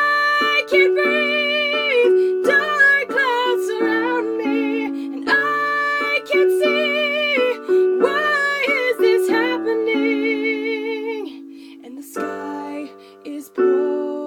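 A woman singing a slow song in phrases with vibrato on held notes, over a chordal instrumental accompaniment.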